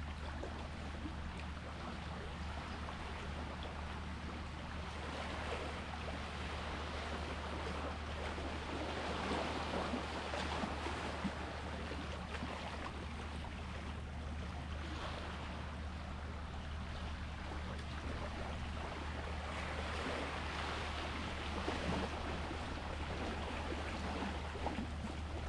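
Sea waves washing ashore, a rushing wash that swells and fades every few seconds, over a steady low hum.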